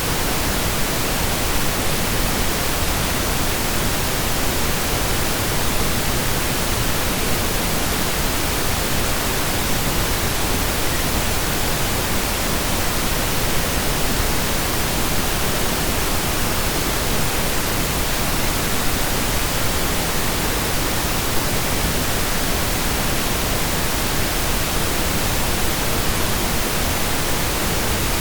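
Steady, even pink noise, synthesized, with equal energy per octave; an unchanging hiss like rain or a waterfall heard from indoors.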